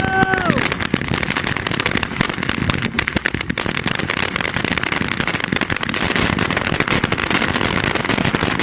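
500-gram fountain firework still spraying, with a dense, steady crackle of many small pops. A high whistling tone in the first half second falls in pitch and stops.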